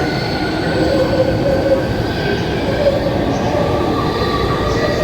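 High-speed train running along the platform: a steady, loud rumble with several drawn-out whining tones on top that drift slightly in pitch.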